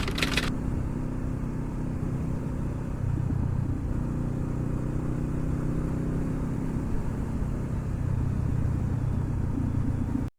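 Honda CB500F's parallel-twin engine running at a steady idle, with a quick burst of rapid clicking in the first half second; the sound cuts off abruptly near the end.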